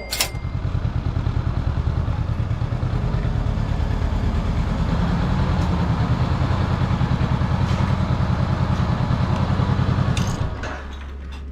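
A small motorcycle engine running at idle with a steady low throb, fading out about ten seconds in.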